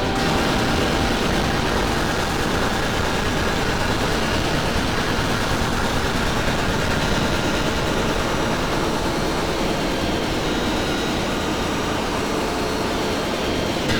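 Dense, steady wall of distorted noise from many layered band sound loops playing at once, with a few faint held tones and no clear beat.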